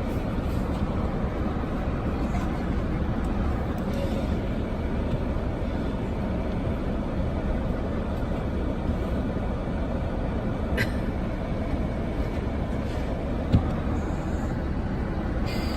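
Steady low rumble and rush of a car running, heard from inside it, with a single sharp click about eleven seconds in.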